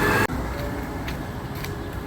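Garbage truck engine with a rising whine that cuts off suddenly about a quarter second in, dropping to a steady low idle.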